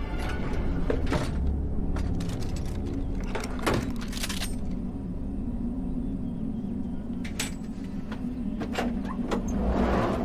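A steady low drone with a string of sharp cracks and knocks scattered through it, and a rushing swell near the end.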